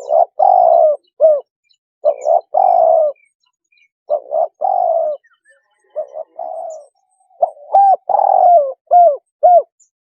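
Spotted dove cooing. Phrases of a few short coos and one longer drawn-out coo repeat about every two seconds, then stop shortly before the end.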